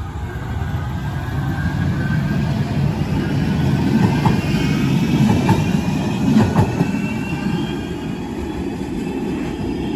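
A Manchester Metrolink Bombardier M5000 tram passing close by: a rumble that builds to a peak about halfway through and then eases off, with a high whine from the motors and wheels over it and a few sharp clicks near the peak.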